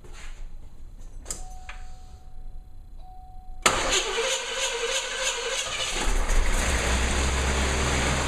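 Cold start of a 1980 Cadillac Seville's fuel-injected V8 after sitting unused since 1998. A few clicks and a steady tone come as the key is turned, then about three and a half seconds in the starter cranks and the engine catches, running steadily from about six seconds on.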